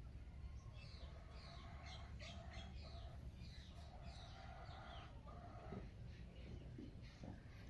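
Many small birds chirping and twittering in a morning chorus, with quick short calls overlapping throughout, faint over a steady low rumble.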